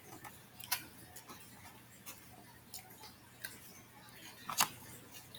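Eating sounds up close: soft clicks and smacks of a mouth chewing food, scattered irregularly, with one sharper click about four and a half seconds in.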